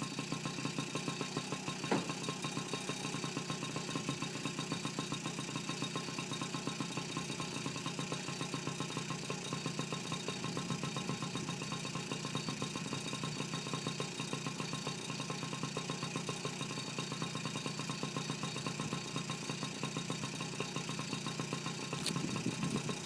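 Honda NC50 Express 49 cc two-stroke single-cylinder engine idling steadily with a quick, even exhaust pulse. A couple of sharp ticks sound over it, one about two seconds in and one near the end.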